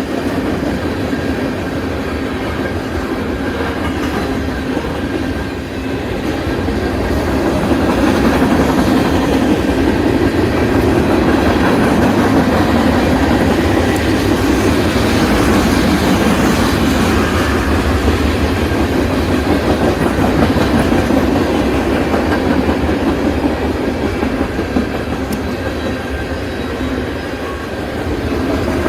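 Freight train cars rolling steadily past, wheels clicking over the rail joints, growing a little louder after the first few seconds.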